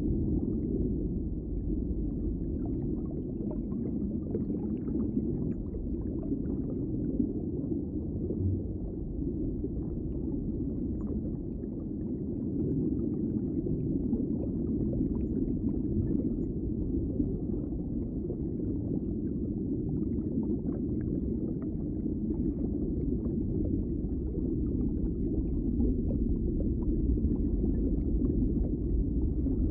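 Underwater ambience: a steady, muffled low rumble of moving water, with faint crackling over it.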